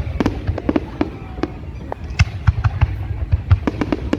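Fireworks going off in a rapid, irregular string of sharp bangs and crackles over a continuous low rumble.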